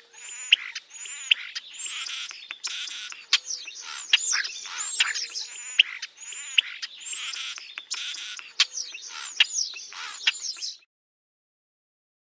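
Birds chirping and whistling in a rapid, unbroken run of high calls, many of them quick falling glides, cutting off suddenly near the end.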